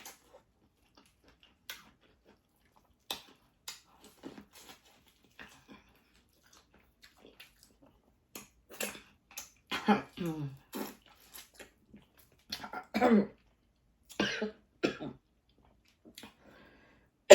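A woman coughing repeatedly and clearing her throat, choked by spicy Cajun seafood-boil sauce; about half a dozen short coughs come in the second half, after several seconds of faint small clicks from eating.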